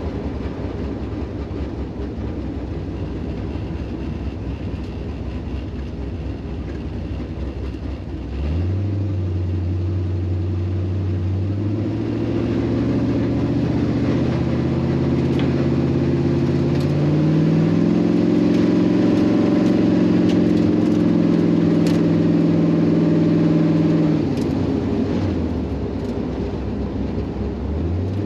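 Car engine with a rough, choppy idle. About eight seconds in it rises to a steady higher speed, climbs in steps and holds. It falls back toward idle near the end, then picks up once more.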